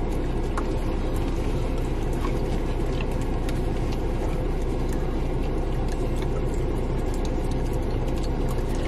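A car's engine running steadily, heard from inside the cabin as an even low rumble. A few faint, soft clicks sit on top of it, from a dog licking ice cream off a plastic spoon.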